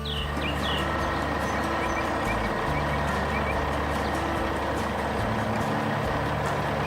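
A large vehicle's engine running steadily, over low background music notes, with a few short chirps near the start and end.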